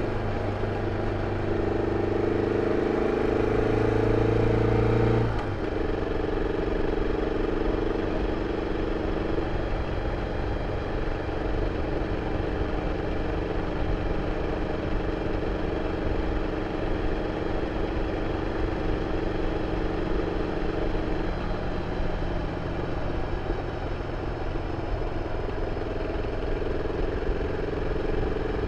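BMW F 650 CS single-cylinder engine running through its original exhaust, holding steady engine speeds. About five seconds in, the revs and loudness drop abruptly, and the engine note shifts slightly again later on.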